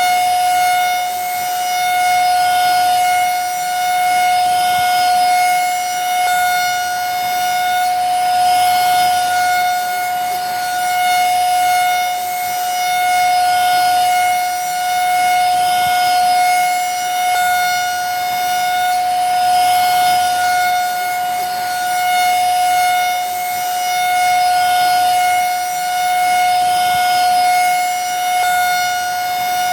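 Vacuum cleaner running steadily: a constant high motor whine over a rush of air, swelling and easing gently every couple of seconds.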